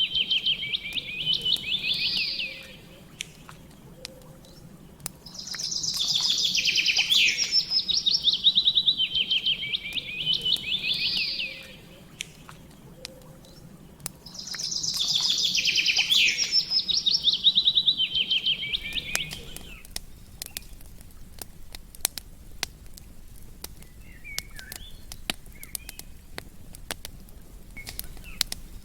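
A songbird singing three long, rapid trilled phrases a few seconds apart, the last ending about two-thirds of the way through, over the irregular crackle and pops of a campfire. The fire crackle carries on alone after the bird stops.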